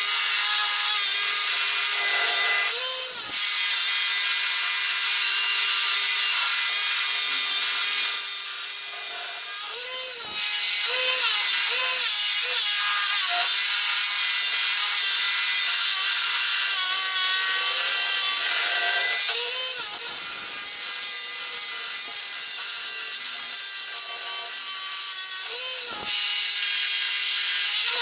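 Power drill boring holes into old reinforced concrete, running continuously with a steady whine. The sound eases briefly a few times and then picks up again.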